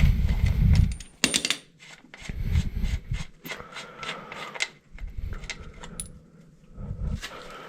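Metal hand tools clinking and clattering as they are handled on a dirt bike, with scattered sharp clicks and a few dull thuds.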